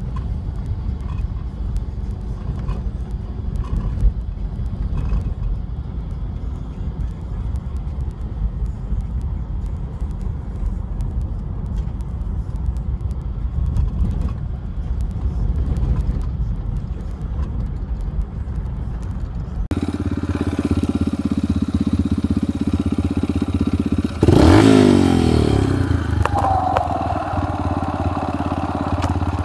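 A motor vehicle running: a low rumble of driving noise with occasional knocks, then, after an abrupt change about two-thirds of the way in, an engine running steadily that revs up and back down once.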